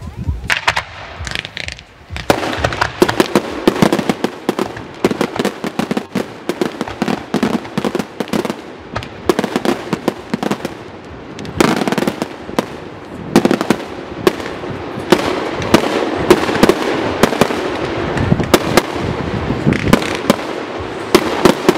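Firework battery (cake) firing a rapid barrage of bangs and crackling star bursts. A few cracks come in the first two seconds, then from about two seconds in the shots come thick and fast without let-up.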